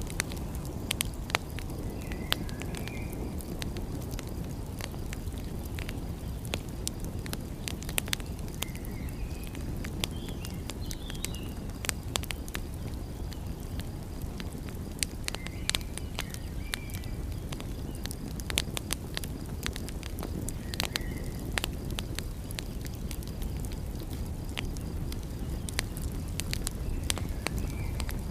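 Wood fire crackling, with frequent sharp pops and snaps over a steady low rumble of sea surf. Faint short chirps come through a few times.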